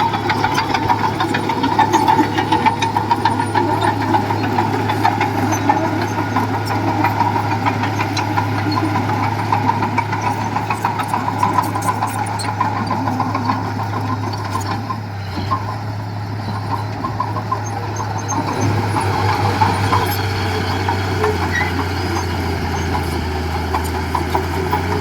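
Diesel engine of heavy earthmoving machinery (bulldozer or dump truck) running steadily under work. Its note drops a little and becomes more pulsing about three-quarters of the way through.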